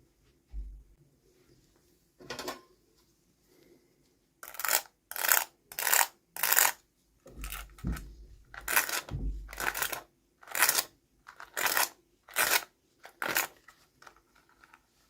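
Handling of an unboxing's packaging and small plastic toy pieces: a run of about a dozen short, sharp rustles, one every half second or so, starting about four seconds in after a few fainter ones.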